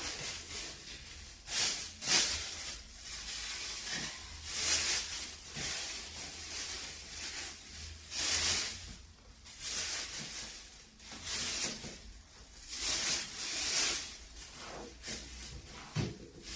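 Clothes rustling as they are gathered and handled, in a series of irregular soft swishes.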